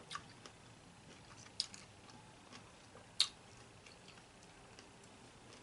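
Quiet eating sounds close to the microphone: soft chewing with a few sharp wet smacks or clicks, the loudest about three seconds in.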